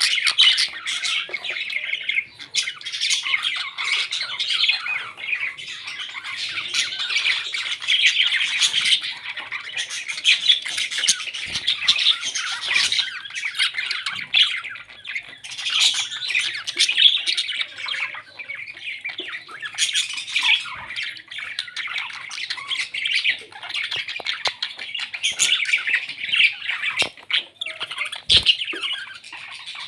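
Pet parrots chattering and squawking without pause, a dense run of short, sharp, high calls.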